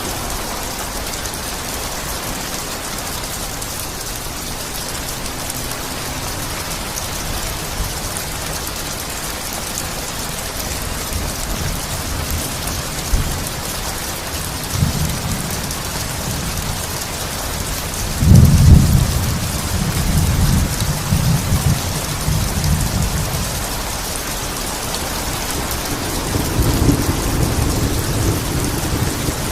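Steady rain falling, with thunder rumbling over it. A low rumble builds about ten seconds in, the loudest peal comes a little past halfway and rolls on for several seconds, and another rumble rises near the end.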